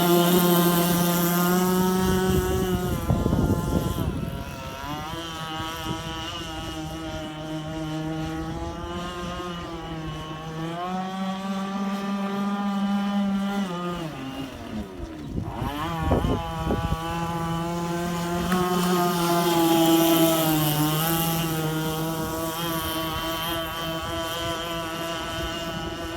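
Zenoah two-stroke petrol engine of a 1/5-scale radio-controlled boat running at speed, its pitch rising and falling with the throttle. The revs drop briefly about four seconds in and again around fifteen seconds in. It grows louder near the start and again about twenty seconds in as the boat passes close.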